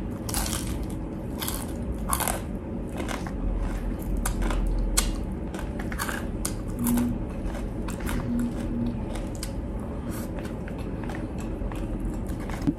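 Close-up crunching and chewing of crispy deep-fried pork: a string of irregular, sharp crunches as the crackling skin is bitten and chewed.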